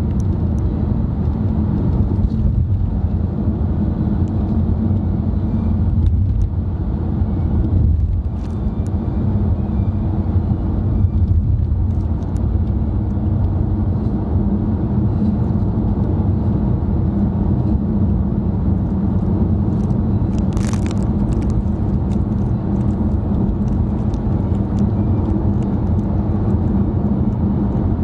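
Steady low road and engine rumble heard from inside a moving car's cabin, with one short hiss about two-thirds of the way through.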